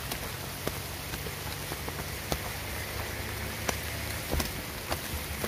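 Rain falling, a steady hiss with scattered sharp taps of drops at irregular intervals.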